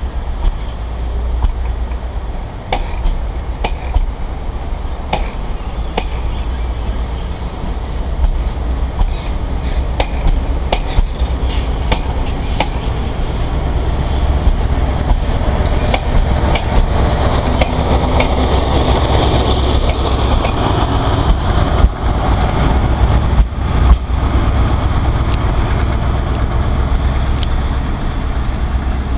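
Network Rail's New Measurement Train, an HST hauled by Class 43 diesel power cars, passing slowly: a steady low rumble from the coaches with scattered sharp clicks of wheels over rail joints. The sound grows louder in the second half as the rear power car approaches.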